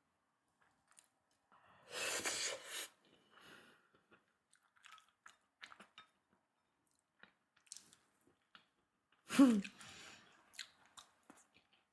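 A person eating close to the microphone: chewing with small wet mouth clicks, a longer noisy burst about two seconds in, and a short, loud vocal sound falling in pitch a little after nine seconds.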